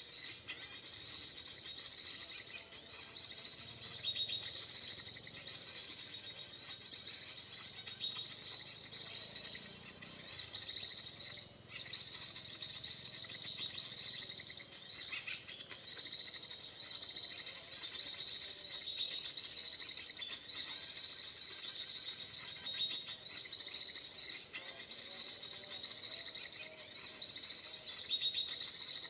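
Small birds calling: a dense, continuous run of short, bright repeated chirps, with a faint steady high whine behind them.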